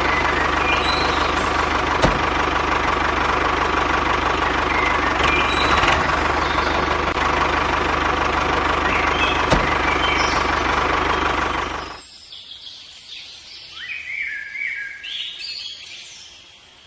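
An engine running steadily with a fast low beat, birds chirping over it. About twelve seconds in the engine sound falls away, leaving only the birds chirping.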